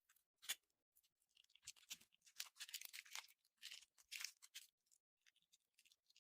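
Slime being squeezed and poked close to the microphone: a dense run of small crackles and pops, thickest in the middle, thinning out near the end.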